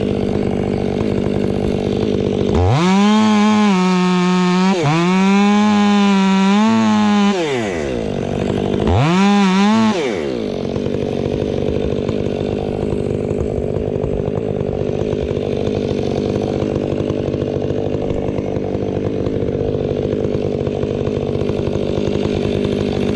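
Gas chainsaw idling, then opened to full throttle in two long runs starting about three seconds in, its pitch wavering as it cuts. A short burst of throttle comes near ten seconds, then it settles back to a steady idle.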